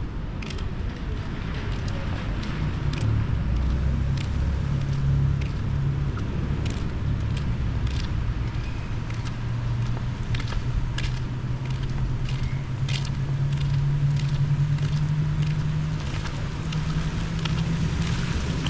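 Street traffic: a car engine running steadily close by, with scattered sharp ticks and clicks over it.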